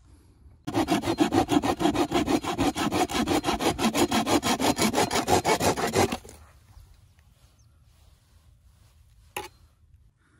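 Hand saw cutting through bamboo with quick, even strokes, about four or five a second, stopping about six seconds in. A single sharp knock comes near the end.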